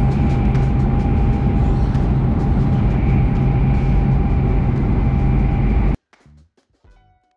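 Tohoku Shinkansen train running at speed, heard inside the passenger cabin: a loud, steady rumble with a constant low hum and a faint steady whine. It cuts off suddenly about six seconds in, giving way to quiet plucked background music.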